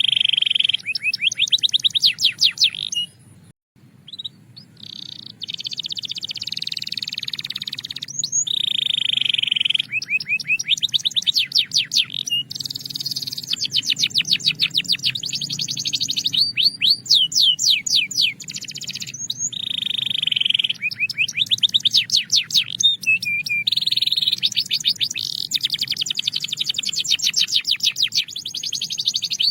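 A Belgian canary singing a continuous song of fast trills and rolls, in phrases a few seconds long broken by short pauses. There is a brief break about three seconds in.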